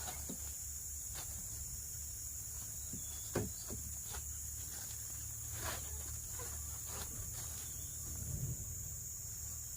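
Forest insects, crickets or similar, chirring in a steady high drone, with scattered light clicks and knocks and one sharper knock about three and a half seconds in.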